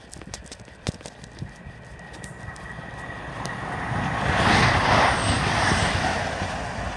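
TransPennine Express passenger train passing through the station at speed. The rush of its passing builds over a few seconds to its loudest about four and a half seconds in, then eases off.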